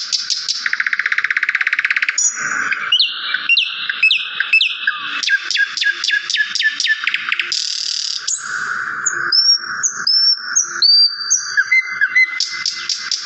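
Songbird singing a varied, continuous song of quick chirps, fast buzzy trills and short slurred whistles. There is a rapid rattling trill about a second in and a string of clear down-slurred whistles in the second half.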